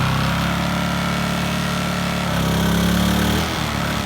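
Briggs & Stratton P2200 inverter generator's small single-cylinder engine running steadily. About two seconds in, its speed picks up and grows louder for about a second, then drops back, as it strains against the pressure washer's load that keeps tripping it into overload.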